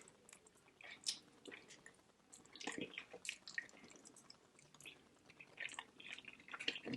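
Faint wet chewing and mouth smacking: scattered soft smacks and clicks of a person eating.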